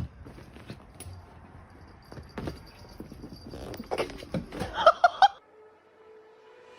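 Dog whimpering, with a quick run of short high yelps about five seconds in, amid faint knocks and rustling.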